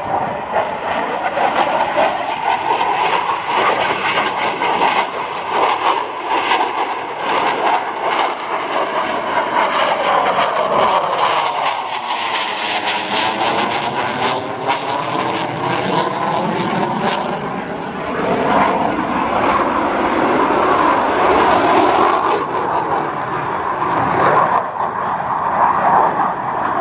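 Saab JAS 39 Gripen fighter jet flying past, its single Volvo RM12 turbofan loud throughout, with a sweeping, phasing tone as it passes closest about halfway through.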